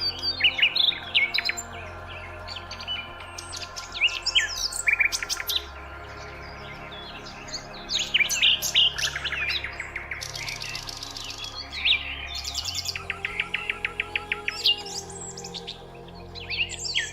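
Several birds chirping and singing in quick whistled notes, with a fast trill of repeated notes about two-thirds of the way through. Beneath them is a soft, steady background music drone whose low notes change every few seconds.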